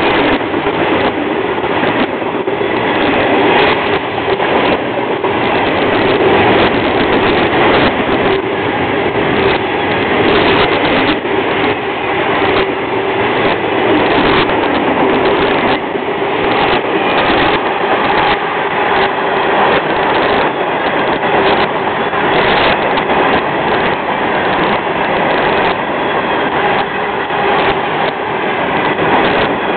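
Florida East Coast Railway freight cars rolling past, with a steady loud rumble and a running series of wheel clacks over the rail joints.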